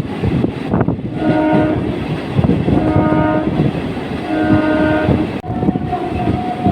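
A train horn sounds three short blasts, about a second and a half apart, over the loud rattle and clatter of a moving train. A steadier, higher tone begins about five and a half seconds in.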